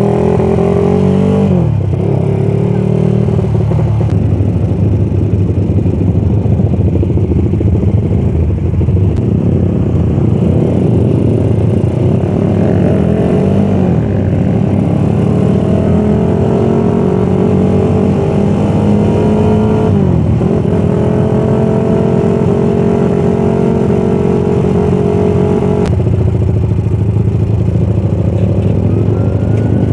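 Suzuki Satria F150's single-cylinder four-stroke engine running under way, its pitch climbing steadily and then dropping sharply at each gear change, several times. Heavy low wind rush on the microphone underneath.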